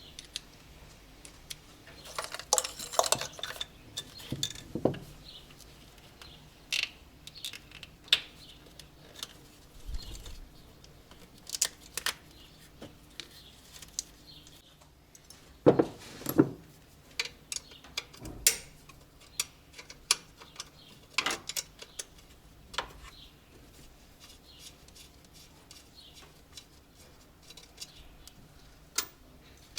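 Irregular metallic clinks and knocks of hand tools and loose engine parts being handled during an engine teardown, with a few louder knocks a few seconds in and around the middle.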